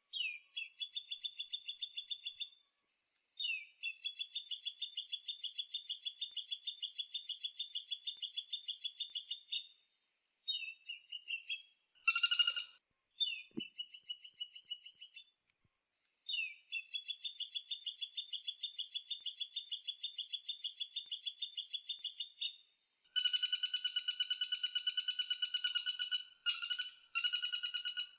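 Woodpecker giving long, rapid, high-pitched rattling trills, each lasting several seconds, with short breaks between them and a few shorter bursts in the middle.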